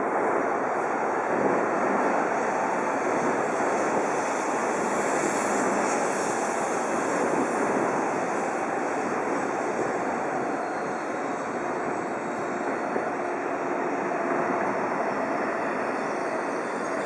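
Coupled E5 and E6 Series Shinkansen train moving slowly past along the platform, with a steady whoosh of the cars going by.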